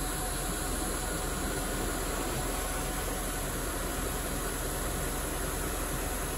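BMW 740i's 4.4-litre V8 idling steadily while warming up after a cold start.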